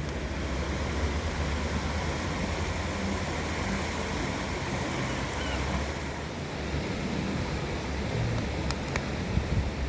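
Wind buffeting the microphone outdoors: a steady rushing noise with a heavy, uneven low rumble, and a few light clicks near the end.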